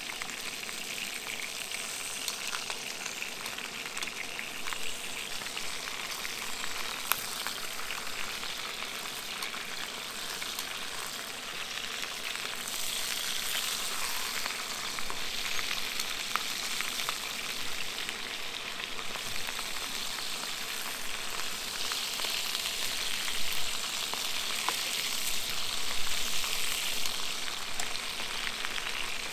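Bratwursts and black and white pudding sizzling in a frying pan, a steady hiss with small crackles that grows louder about halfway through.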